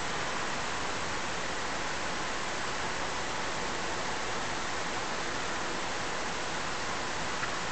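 Steady, even hiss with no other sounds.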